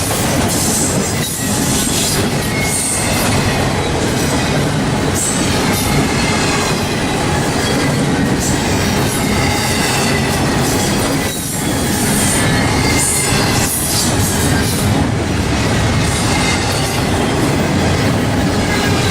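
Norfolk Southern train rolling past close by: a loud, steady rumble of wheels over the rails with some clickety-clack and a faint, high wheel squeal.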